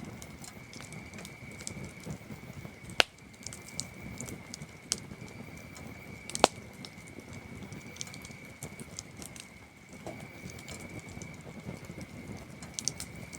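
Campfire wood crackling with scattered small pops and two sharp loud snaps, about three and six seconds in, over the steady high trill of chirping crickets.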